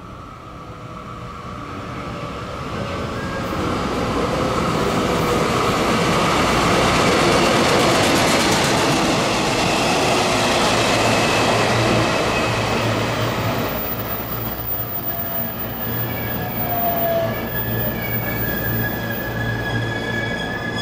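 DD51 diesel-hydraulic locomotive and its train of long-rail flat wagons passing close by: engine and wheels on the rails grow louder over the first several seconds, then ease off as the wagons roll past. A steady high ringing tone joins in during the second half.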